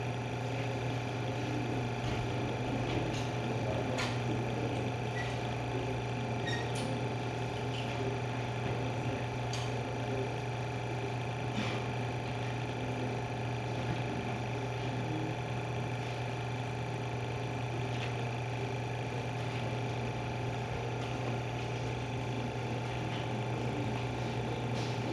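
Scania Liquid Only AdBlue dosing pump on a test bench during a leak-tightness test, running with a steady low hum and a few faint clicks.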